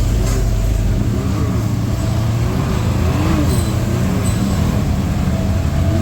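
ATV engine running under way, with a steady low rumble and a pitch that rises and falls repeatedly as the throttle and revs change.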